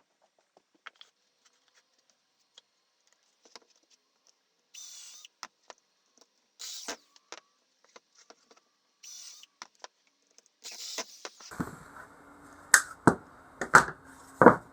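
Workbench handling sounds while a wooden guide block is clamped in place: scattered light clicks and short scrapes, then several sharp knocks in the last few seconds.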